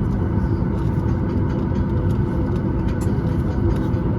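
Steady low rumble of cabin noise inside a Boeing 737 MAX 8, the aircraft's engines and air systems heard from a seat behind the wing.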